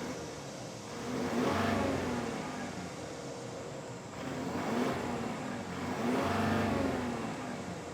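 A 2015-or-newer Ford F-150's engine revved through its stock exhaust three times, each rev rising and then falling back in pitch.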